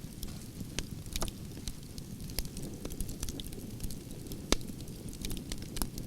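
Wood fire of burning logs crackling, with irregular sharp pops and snaps over a steady low rush of flames; one louder pop about four and a half seconds in.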